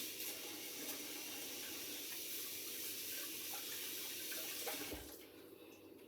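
Kitchen tap running steadily into the sink, then shut off about five seconds in.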